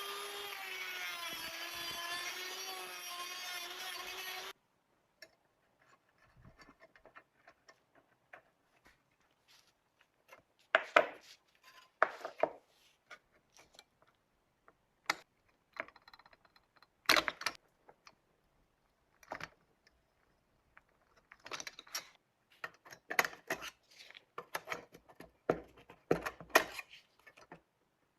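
A small electric motor whirring steadily, then cutting off suddenly about four seconds in; after it, irregular scraping, rubbing and sharp clicks of hand-tool work, in clusters.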